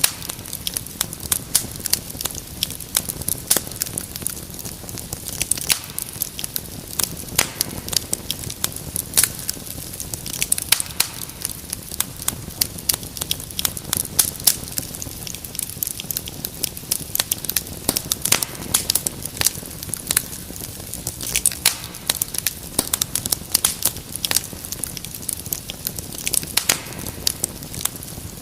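Wood fire crackling in a fireplace: frequent irregular sharp pops and snaps over a soft steady rumble of the flames.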